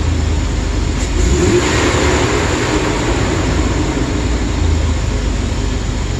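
2008 Chevrolet Express van engine running steadily with a misfire, which the mechanic takes for a lean misfire.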